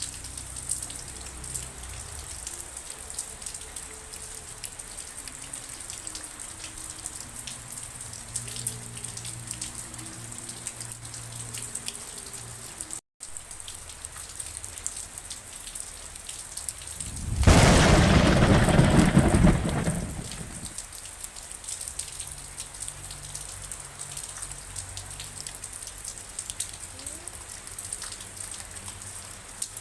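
Steady rain falling, with a dense patter of close drops. About two-thirds of the way through, a loud clap of thunder rumbles for about three seconds and dies away. Shortly before halfway the sound cuts out completely for a split second.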